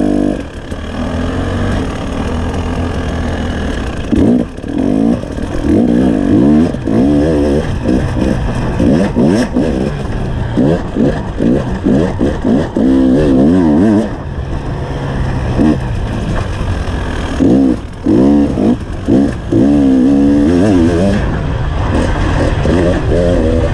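Enduro dirt bike engine being ridden hard on a dirt trail, the revs climbing and falling again and again as the throttle is opened and closed and it shifts gears, with brief drops where the throttle is shut.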